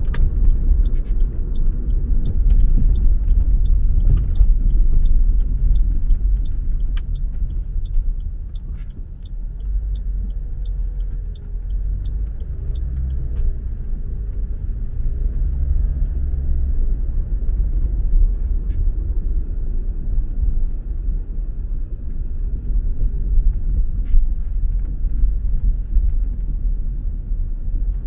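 A car driving on a city road: a steady low rumble of engine and tyre noise, with a regular light ticking about two or three times a second through roughly the first half, easing off briefly around the middle.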